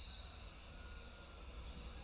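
A pause in the song of a sooty-headed bulbul: only a faint steady low hum and hiss.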